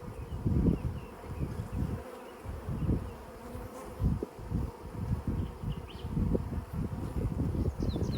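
A mass of honeybees buzzing around an open hive with a steady hum, while gusts of wind rumble on the microphone.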